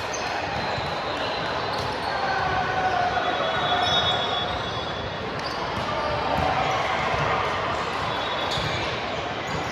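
Volleyball gym din: many voices talking and calling out, with the knocks of balls bouncing on the court floor, in a large echoing hall.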